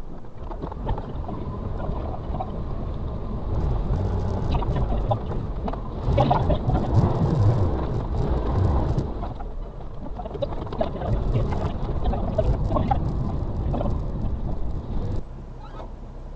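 Suzuki Carry kei truck's 660cc three-cylinder engine working under load, heard from inside the cab over a rough off-road track, with many short knocks and rattles. It grows louder partway through, then drops sharply near the end.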